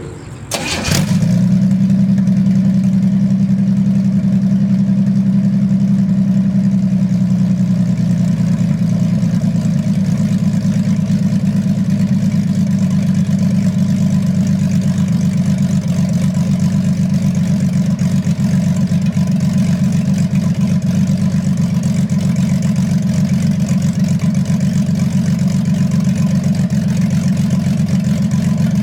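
1968 Chevrolet 250 inline six on open, home-made dual exhaust headers with no muffler, cranking and catching about a second in, then idling loudly and steadily.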